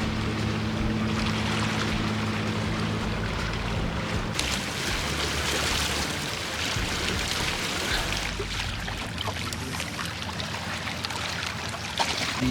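A motor hums steadily over rushing water and wind noise; about four seconds in the hum drops away, leaving a rushing, splashing haze.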